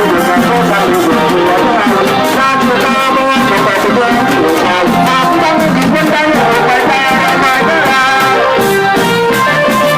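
Thai trae wong brass band playing a tune: brass melody lines over a steady beat of percussion strokes.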